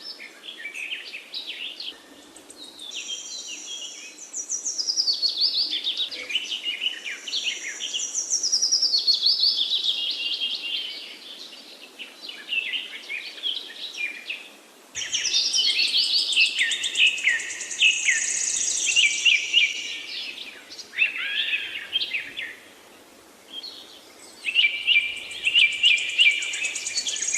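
Songbirds singing in bursts of rapid chirps and falling trills, with short lulls between bursts and a sudden return to full song about halfway through.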